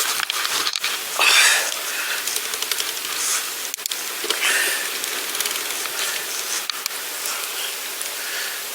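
Steady hiss of a bicycle being ridden along a path, tyres rolling, with brief louder rushes about a second in and again around three and four and a half seconds in.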